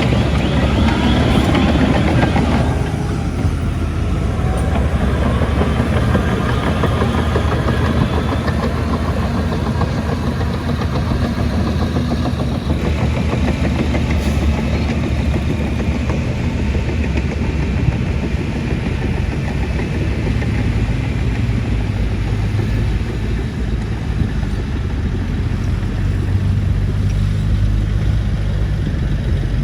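Heavy diesel engine of construction machinery running steadily, with a squealing, scraping sound over it for the first few seconds.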